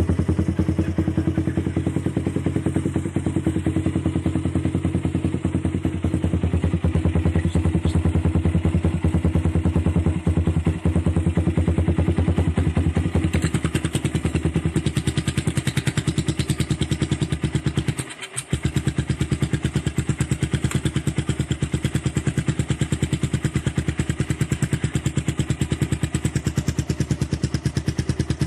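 Suzuki Satria FU's 150 cc single-cylinder four-stroke engine idling through an R9 Assen aftermarket exhaust with the dB killer baffle removed, a steady, rapid train of exhaust pulses. The sound drops out briefly about two-thirds of the way through.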